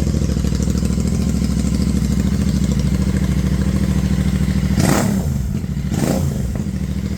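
Royal Enfield Interceptor 650's parallel-twin engine running with its silencers removed, idling with a loud pulsing open-pipe exhaust note. About five seconds in and again a second later it is blipped briefly.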